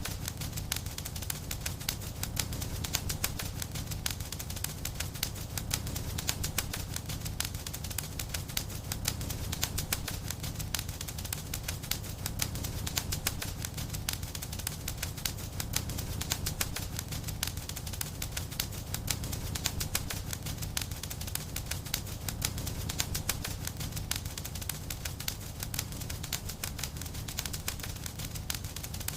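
Wood fire crackling in a fireplace: a steady stream of small irregular pops and snaps over a low, even rumble of the flames.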